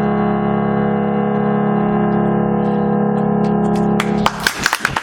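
A live band holds the song's final chord steadily, with guitar prominent, until it stops about four seconds in; audience applause breaks out right after.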